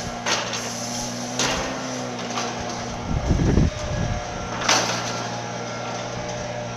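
Strong gusty wind: a gust buffets the microphone with a low rumble about three seconds in, among a few sharp knocks and rattles, over a steady low hum.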